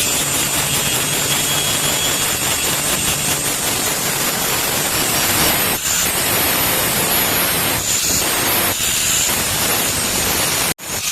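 A power grinder grinding steel, a steady loud grinding noise with a high whine, dipping briefly a few times as the work is lifted. It cuts out abruptly for an instant near the end.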